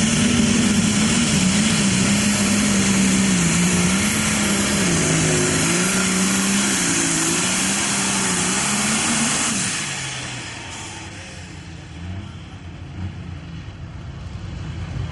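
Diesel super stock pulling tractor engine running flat out under load, its note wavering up and down. About nine and a half seconds in it drops away sharply as the throttle comes off.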